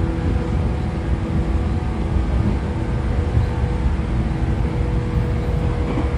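Inside a JR 113 series motor car with MT54 DC series-wound traction motors: a steady low rumble of the train, with a few faint steady hums over it.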